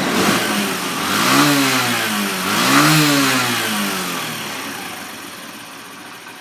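Honda Benly 90S's single-cylinder four-stroke engine blipped twice by the throttle, rising and falling in pitch each time, then dropping back and growing quieter.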